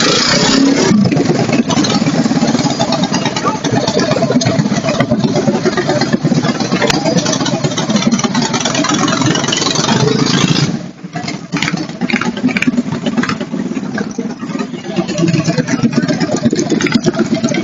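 Small minibike engine running loud and rough, its level dipping briefly about eleven seconds in before picking up again.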